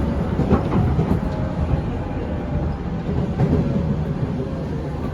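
Running sound of a JR 205 series 500 subseries electric train, heard inside the motor car: a steady low rumble of wheels on rail with a faint steady whine and a few light knocks.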